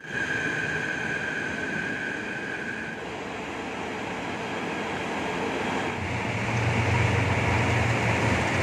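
Trains running through a station platform. A steady high-pitched tone with overtones sounds over the running noise for the first three seconds. From about six seconds in, the deep steady hum of a diesel locomotive passing close by takes over and the sound grows louder.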